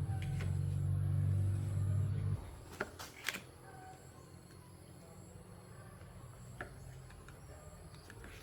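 A low, steady machine hum that cuts off suddenly about two and a half seconds in, followed by two sharp clicks and a faint low hum.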